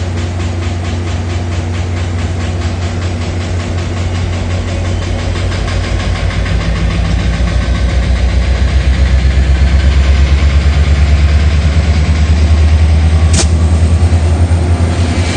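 Diesel freight locomotive engine passing close, a deep steady throbbing that grows louder over the first half and then holds, with a sharp click near the end.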